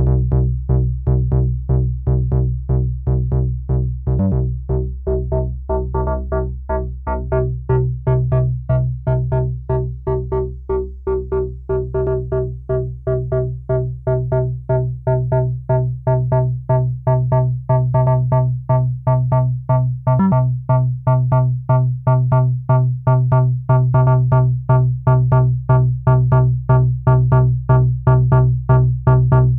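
Malekko Manther analog monosynth playing a repeating sequence of short bass notes, about three a second. Its timbre shifts and brightens as the filter and other parameters are tweaked.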